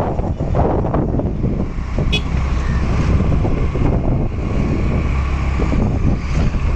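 Wind buffeting the microphone of a moving motorbike, with its engine running underneath as a steady low rumble. A brief high tone sounds about two seconds in.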